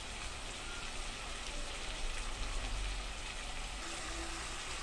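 Chicken masala frying in ghee in a pressure cooker pot over a gas flame: a steady crackling sizzle as the freshly added ghee melts into the half-cooked chicken.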